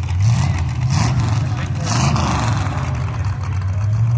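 Demolition derby car engines running at a loud idle, with the pitch swelling up and dropping back a few times as drivers blip the throttle.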